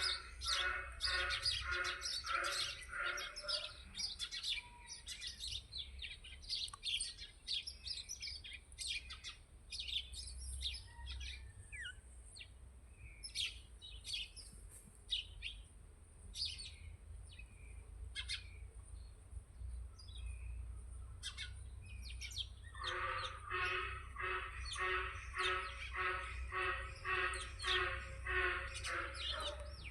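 Birds chirping and calling, with a fast repeated pitched call at the start that returns from about 23 s, over a steady low rumble.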